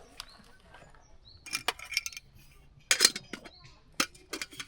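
Clinks and clatters of camp gear being handled, in three short bursts of knocks, with small birds chirping faintly.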